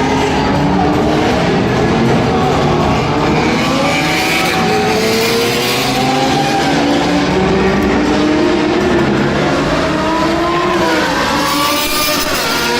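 Several car engines revving, overlapping, their pitch rising and falling continuously.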